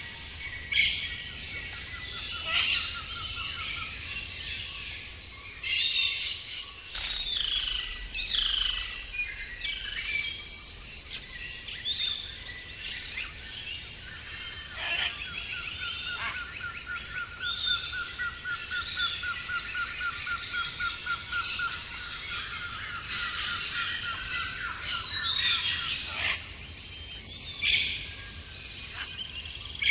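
A flock of parrots chirping and chattering continuously, many overlapping calls at once, with a long rapid trill running through the middle.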